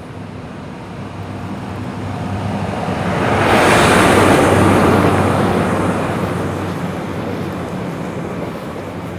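A lorry driving past: its engine hum and tyre rush build up, peak about four seconds in, then slowly fade away.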